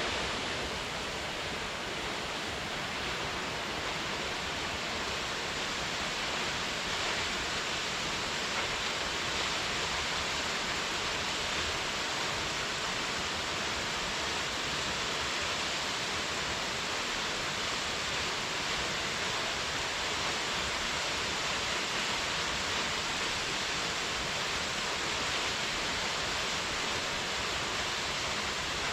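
Waterfall: the steady rush of falling water, an even hiss strongest in the upper middle range, with no breaks or changes.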